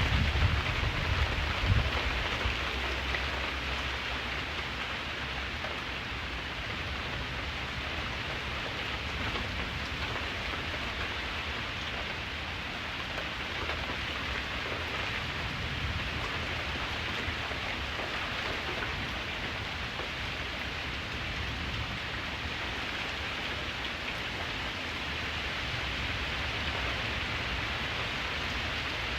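Steady rain falling, an even hiss of drops. A low rumble dies away over the first few seconds.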